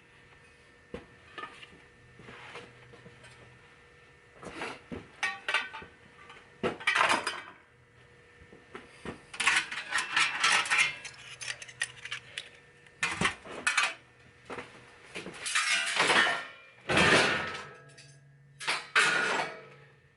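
Metal scrap parts from a stripped stereo receiver clattering and clinking as they are handled and dropped. The clatters come in irregular bunches with short quiet gaps between them.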